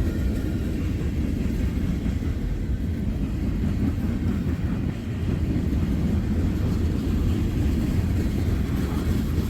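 Long freight train of tank cars rolling past, a steady low rumble.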